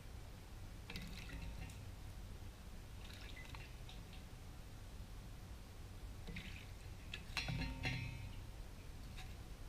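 A jay bathing in a shallow bird bath, splashing in short bouts: one about a second in, another around three seconds, and a longer, louder flurry just before the eight-second mark, over a low steady rumble.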